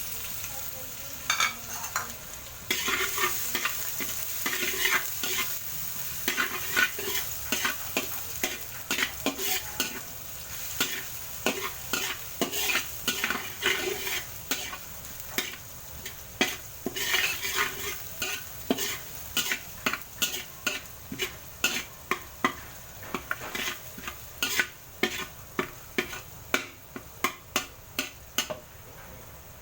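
Garlic frying in hot cooking oil with a steady sizzle, stirred in the pan with repeated scrapes and knocks against the metal, which come in a steadier rhythm of about one to two a second in the second half.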